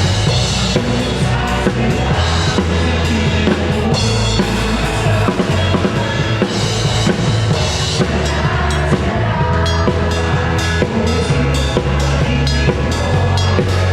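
Live band playing loudly, with a drum kit (bass drum and snare) and heavy bass prominent, recorded unmixed from the room.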